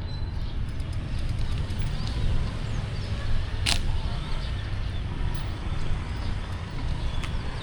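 Street ambience recorded from a moving bicycle: a steady low rumble, with one sharp click a little past halfway and faint high chirps.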